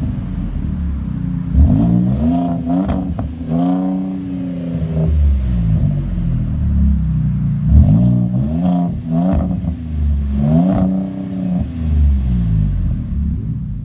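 A 2018 Ford Raptor's 3.5-litre twin-turbo EcoBoost V6 through a Kinney's Street Demon performance exhaust, idling and being revved. Two sets of quick throttle blips, each ending in a longer rev, with the deep idle between them.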